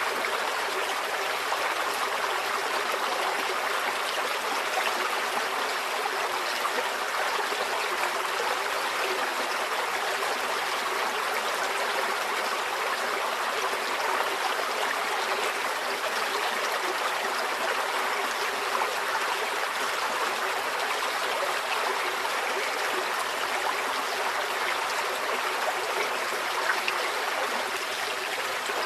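A shallow stream flowing steadily, water babbling and trickling over stones.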